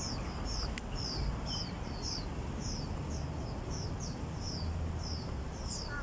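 A bird calling over and over: short, high chirps that sweep downward, about two a second, over a steady low background rumble. A single sharp click comes a little under a second in.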